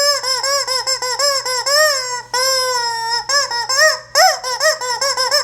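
Rubber chicken squeeze toy squawking loudly over and over in quick squeezes, with one longer drawn-out squawk about halfway through.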